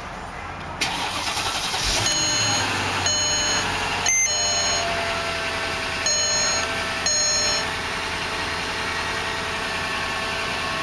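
A series of about five short electronic beeps, spaced about a second apart, from the cabin of a 2006 Mercedes-Benz ML500, over its idling engine. A thump and a click come with the beeps.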